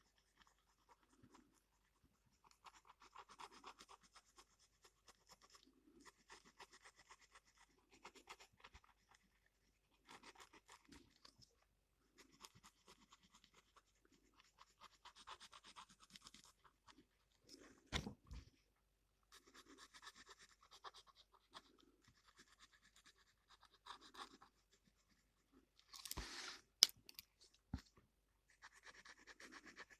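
Faint scratching of a gel pen drawing on paper, in short runs of strokes a second or two long with pauses between. A few sharp knocks come through about halfway and again near the end.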